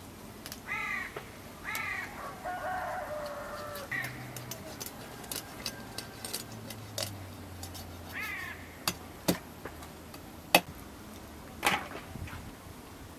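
Birds calling outside: a few short, arched calls in the first few seconds and another about eight seconds in. Near the end come a few sharp knocks and clicks from the knife and fish being handled on the wooden board.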